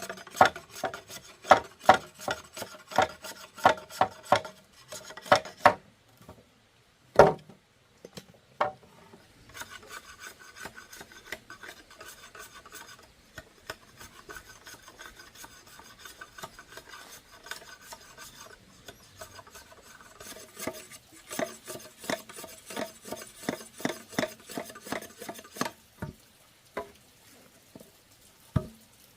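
A hand tool rasping back and forth in runs of quick strokes, about two a second, with a couple of single knocks and a stretch of softer continuous rubbing in the middle.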